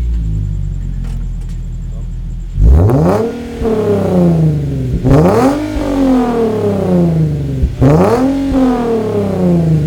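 Nissan VQ37 3.7-litre V6 through an Invidia aftermarket exhaust with Kinetix high-flow catalytic converters, idling and then revved three times, each blip rising quickly and falling slowly back toward idle.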